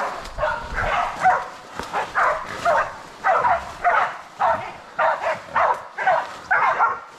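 Pig-hunting bailing dogs barking steadily at a feral pig held at bay, short barks about two or three a second. The barking of dogs that have caught up with a pig and are holding it.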